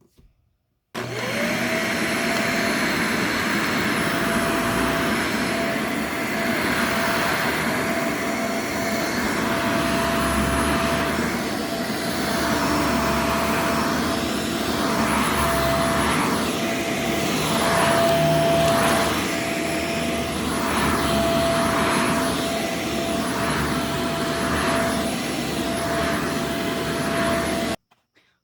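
Upright vacuum cleaner switched on about a second in, its motor spinning up to a steady whine and running over dirty carpet. From about halfway the sound swells and fades in a regular rhythm. It is switched off suddenly near the end.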